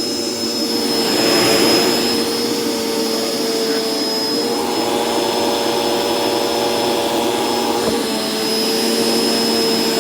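Dirt Devil Express Vac vacuum cleaner running steadily: a constant motor hum under a high whine and rushing air, its tone shifting slightly about four seconds in, with a brief click near the end.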